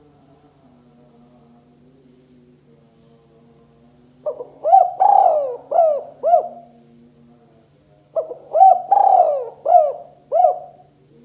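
Spotted dove (tekukur) cooing: two phrases of about five coos each, the first starting about four seconds in and the second about eight seconds in.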